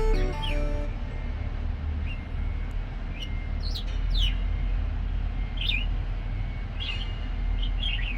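Pet budgerigar chirping in short, scattered calls that rise and fall sharply, over a steady low hum. The tail of a music track ends in the first second.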